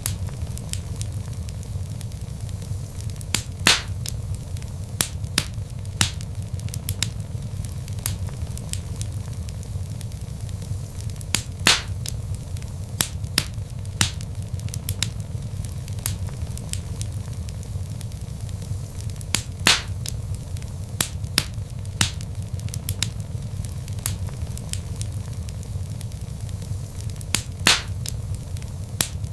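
Log fire crackling: a steady low rumble of burning wood with frequent sharp pops and snaps, a few louder pops standing out.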